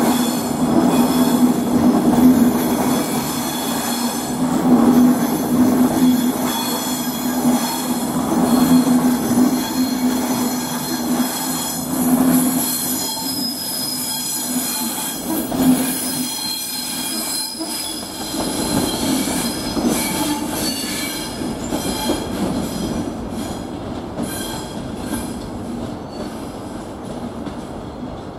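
Class 390 Pendolino electric train running slowly over the station pointwork, with a steady low hum and high wheel squeal from the curves. Rhythmic clicks of the wheels over the rail joints come in during the second half as it fades away.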